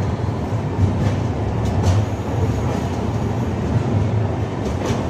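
Passenger train rolling slowly along a station platform, heard from an open coach doorway: a steady low rumble of the wheels on the track, with a few sharp clicks about two seconds in and again near the end.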